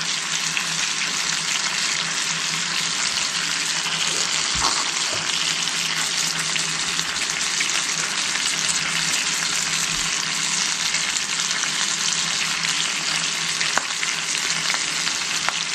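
Butterflied whole chicken frying skin-side down in olive oil and butter in a hot skillet: a steady sizzle, with a few faint ticks of spattering fat.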